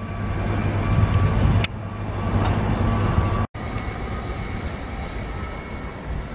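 Freight train carrying lorry trailers rolling past with a steady low rumble. After an abrupt cut about three and a half seconds in, a TILO Stadler FLIRT electric multiple unit approaches more quietly.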